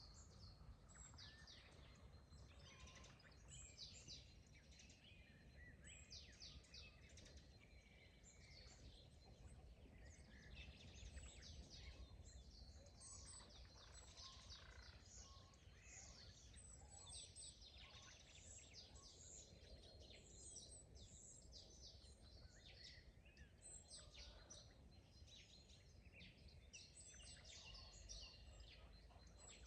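Faint chorus of several songbirds, with quick high chirps and trills overlapping throughout, over a low steady rumble.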